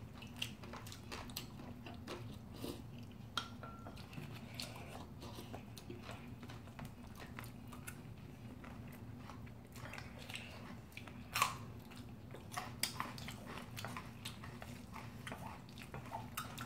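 Close-up eating sounds: two people chewing mouthfuls of bibimbap, with scattered wet clicks and smacks and occasional taps of spoons against a stainless steel mixing bowl, a few louder ones a little past the middle. A faint low steady hum sits underneath.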